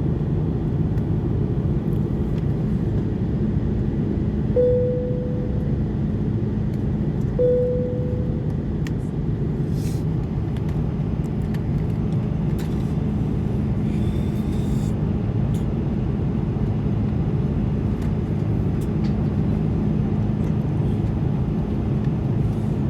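Steady rumbling cabin noise inside an Airbus A330-200 airliner: engine and airflow noise with a faint steady hum. Twice, about three seconds apart near the start, a single cabin chime tone rings out and fades.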